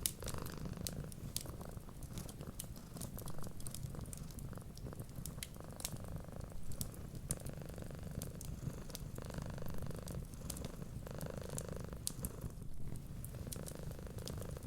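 A cat purring steadily, swelling and easing with each breath, with the sharp scattered pops and clicks of a crackling wood fire over it.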